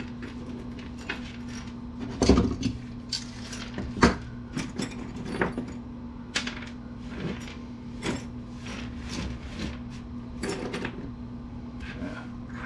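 Small metal scrap parts, such as connectors and screws, clinking and clattering as they are handled and sorted by hand, in irregular clicks with two louder knocks about two and four seconds in. A steady low hum runs underneath.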